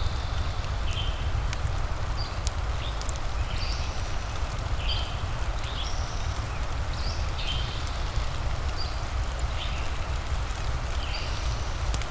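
Ambience of steady rain with a deep low rumble and a fireplace crackling in sharp little ticks. Short high chirps repeat every second or so over it.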